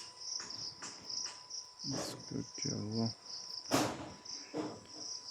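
Crickets chirping steadily, a pulsing high trill. A short voice sound comes twice near the middle, and a sharp click just before four seconds in.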